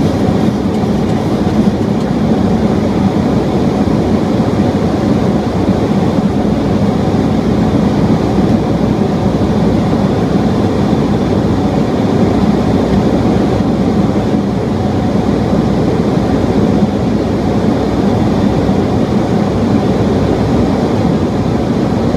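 Steady roar of a Boeing 737 in flight, heard from inside the aircraft: airflow and engine noise with no change in level.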